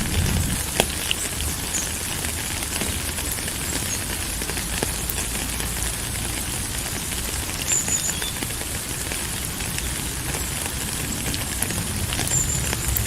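Steady rain falling, an even hiss with scattered sharp drop clicks and a low rumble beneath it.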